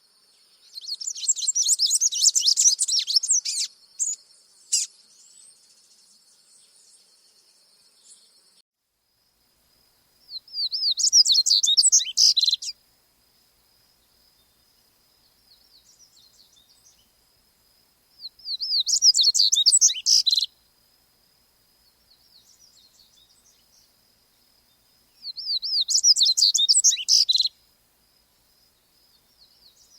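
A songbird singing four short bursts of rapid high trills, one about every seven or eight seconds. A faint steady high whine runs beneath.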